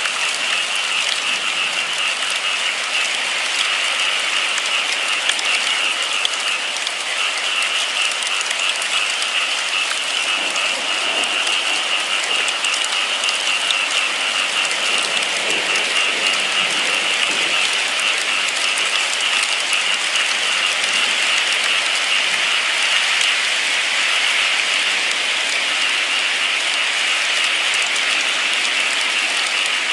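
Steady, continuous rain falling, an even hiss with no let-up.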